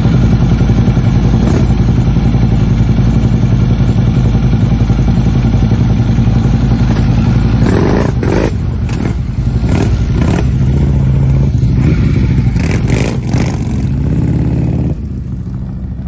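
Harley-Davidson V-twin motorcycle engine running loud and steady, with a few short louder bursts over the second half, then dropping to a quieter idle near the end.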